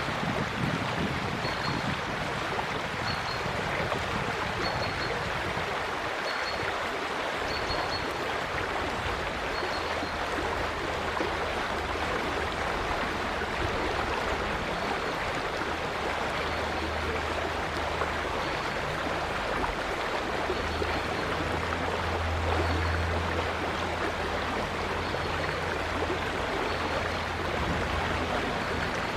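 River water flowing steadily, with a faint high bird note repeating about every second and a half.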